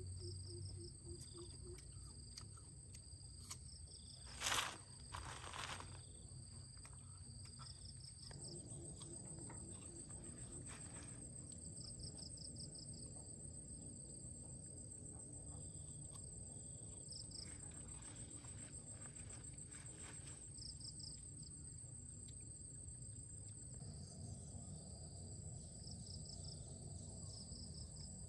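Insects chirping steadily in high, pulsing trills, with two sharp knocks about four and a half seconds in.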